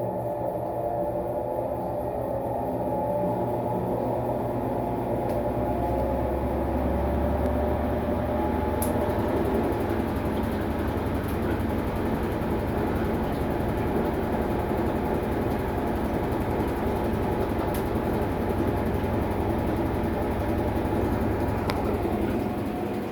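Maytag MVWX655DW1 top-load washing machine running its tub clean cycle: a steady motor hum and rumble, with the low rumble growing stronger a few seconds in.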